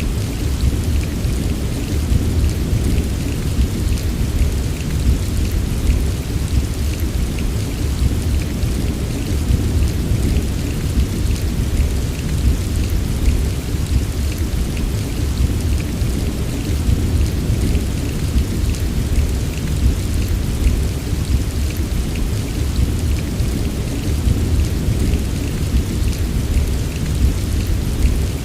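Heavy rain falling steadily, with a constant deep rumble underneath and fine drop patter up high.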